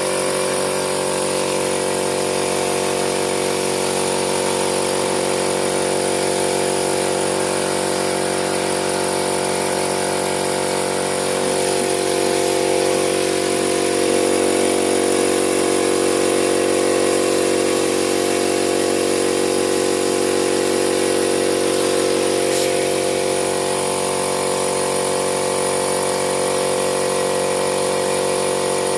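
A machine running steadily with a constant hum and hiss, slightly louder and lower in the middle stretch.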